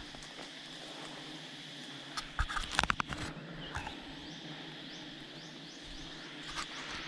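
A cluster of sharp knocks and crackles about two and a half seconds in, then a bird repeating short rising chirps about twice a second.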